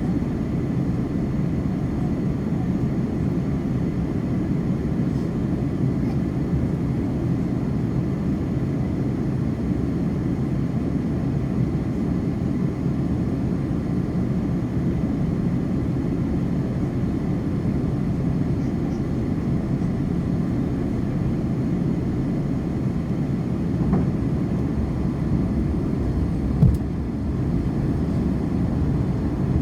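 Steady low cabin noise of a Delta Airbus A330-300, the even sound of engines and airflow heard from a window seat, with no change in pitch or level. A single short knock comes near the end.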